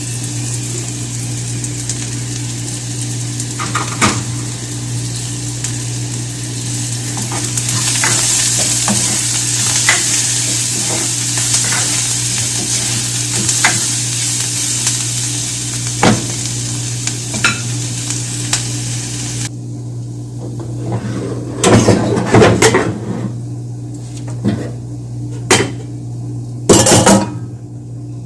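Food sizzling in a pot while a spoon stirs it, with small clicks of the spoon against the metal. The sizzle cuts off about two-thirds of the way through, and louder spoon scrapes and clanks against the pot follow. A steady low hum runs underneath.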